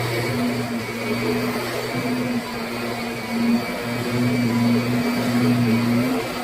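Kirby Sentria upright vacuum cleaner running. Its motor hum dips and swells every second or so.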